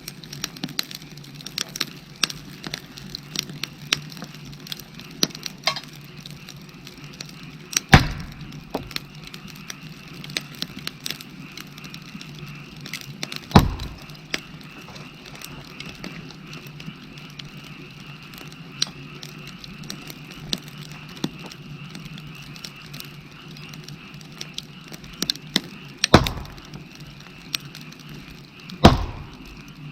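Wood fire crackling with many small ticks and four loud snapping pops, over a steady chorus of frogs calling.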